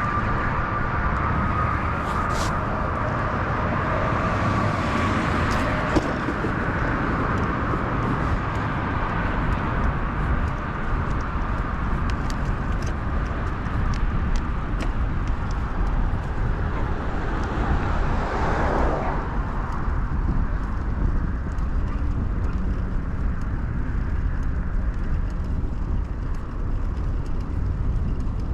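Steady low wind rumble and tyre noise from a mountain bike rolling along a road, with a few sharp ticks. About two-thirds of the way in, a motor vehicle swells up and passes by.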